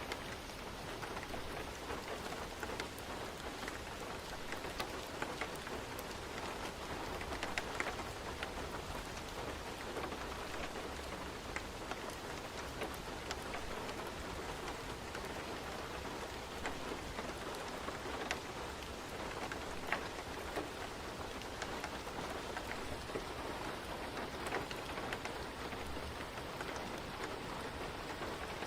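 Ambience track of steady rain falling, mixed with a fireplace, with scattered sharp ticks and crackles over the even rush of the rain.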